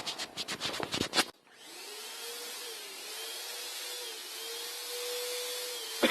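Quick rattling for about a second, then, after a brief pause, black Plasti Dip spraying: a steady hiss with a faint whine underneath. A short clatter comes near the end.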